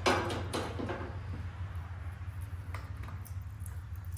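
Metal clinks and scraping as the tractor's fuel filter and filter housing are worked loose and pulled free, busiest in the first second, with a few light ticks later. A steady low hum runs underneath.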